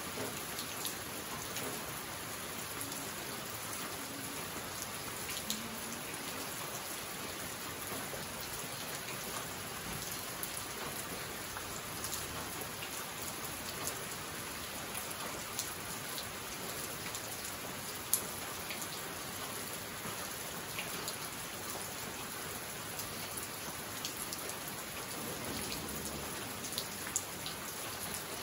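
Steady tropical rain falling, with a few sharp single drops ticking close by, the loudest about two-thirds of the way through.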